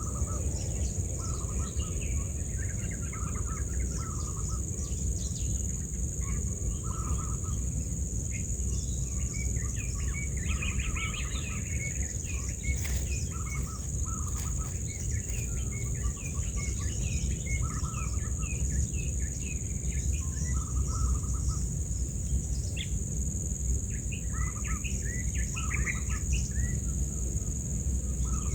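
Birds chirping in short repeated phrases, over a steady high-pitched insect drone and a constant low rumble.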